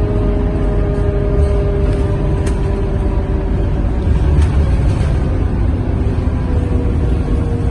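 Scania K230UB Euro V diesel city bus running, heard from inside the passenger cabin: a heavy low rumble with a steady whine that slowly falls in pitch.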